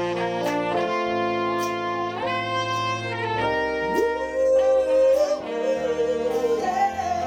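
A live soul band with a horn section plays an instrumental phrase between sung lines. A saxophone carries a melodic line of held and sliding notes over keyboard, bass and drums.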